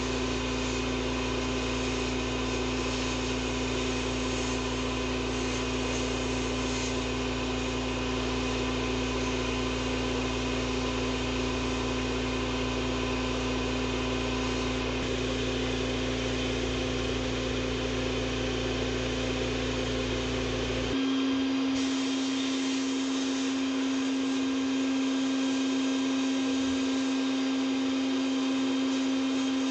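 Sandblasting in an abrasive blast cabinet: the steady hiss of the blast nozzle over small metal parts, with a steady motor hum underneath. About two-thirds of the way through the sound changes abruptly, the deep rumble dropping away and the hum sitting a little higher.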